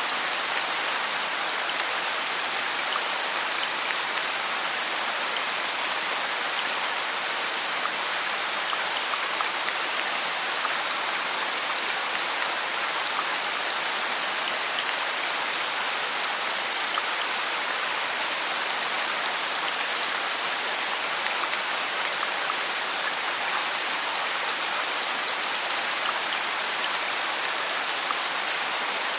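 Steady rain falling, mixed with a constant white-noise hiss, with faint patter of individual drops and no change in level.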